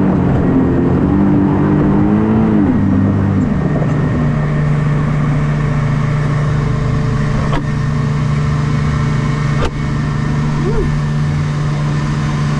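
Shark boat's engine revving up and down, then settling to a steady drone about three seconds in. Two short clicks sound in the second half.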